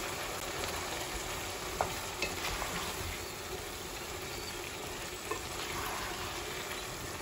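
Bottle gourd chunks sizzling steadily in hot spiced oil in a coated pot while a wooden spatula stirs them, with a few light knocks of the spatula against the pot.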